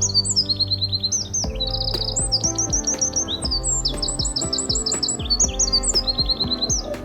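Songbird singing rapid, high trills and chirps in quick runs of repeated notes, over soft background music with sustained low tones.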